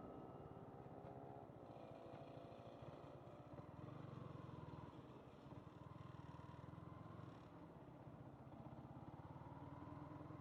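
Yamaha MT-15's single-cylinder engine running faintly at low revs, its pitch dropping about two seconds in and rising again near the end.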